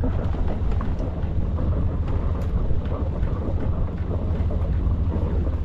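Sailboat's engine running steadily with a low rumble, mixed with wind buffeting the microphone and a few light clicks.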